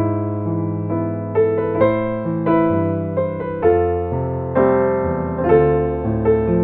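Solo piano playing a slow ballad arrangement: a melody of single notes struck every half second to a second over held bass notes, with the sustain ringing on.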